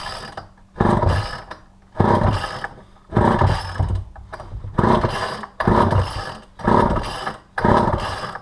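Pull-cord recoil starter of a Poulan 2000 two-stroke chainsaw yanked over and over, roughly once a second. The choked engine turns over on each pull without catching.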